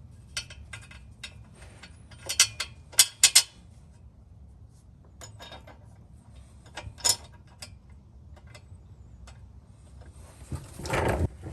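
Scattered metallic clicks and clinks of hand tools and exhaust parts being handled, the sharpest a few seconds in, followed by a louder, longer scraping noise near the end.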